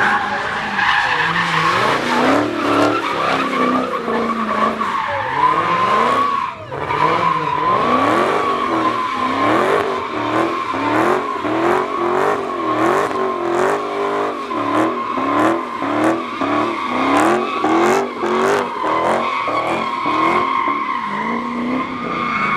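Car drifting in circles: tyres squealing steadily under wheelspin while the engine revs rise and fall over and over, about once a second.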